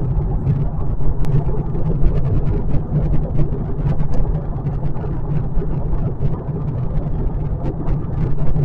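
Interior cabin noise of a 2025 Kia K4 driving on the highway: a steady low road and tyre rumble with a constant drive hum.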